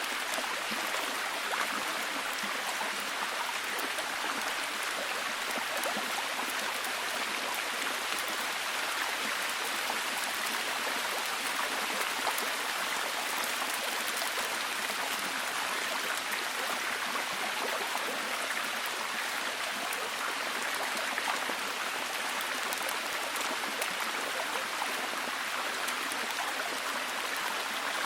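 Steady heavy rain: an even hiss of falling water with many fine drop ticks, holding at one level throughout.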